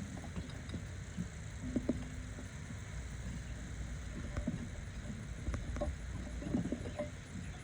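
Scattered light metallic clicks and knocks of hand tools working a stuck, gasket-sealed part on a BMW N55 engine, over a steady low rumble.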